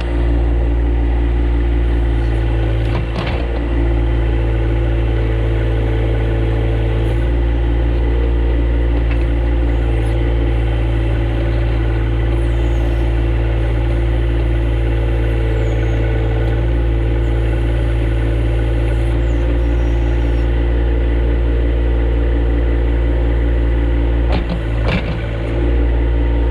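Little John Deere compact tractor engine running steadily under load while it pulls a tree out of its hole, with brief dips in level about three seconds in and again near the end.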